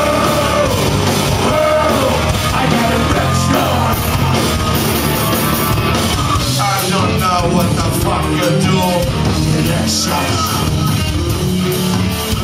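Loud rock music: a full band playing with a yelled, punk-style vocal.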